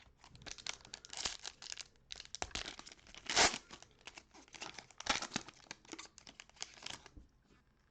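A trading card pack wrapper being torn open and crinkled by hand, a run of irregular crackling rustles with the loudest tear a little past three seconds in.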